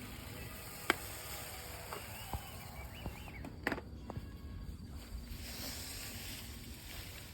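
Mountain bike riding a dirt singletrack: a steady hiss of rolling over the trail with scattered sharp knocks and rattles from the bike over bumps, the loudest about a second in.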